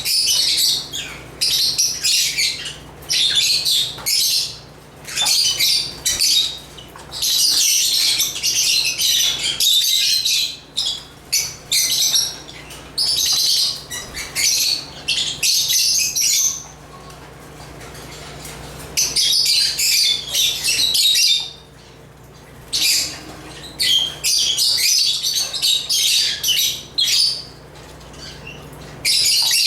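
African lovebirds (Agapornis) chirping in rapid bursts of high, shrill chatter, with a quieter lull a little past the middle.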